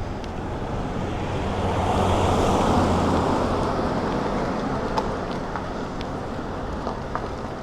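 City traffic heard while cycling, with wind on the microphone; a motor vehicle passes close by, its noise swelling to a peak about two to three seconds in and then fading.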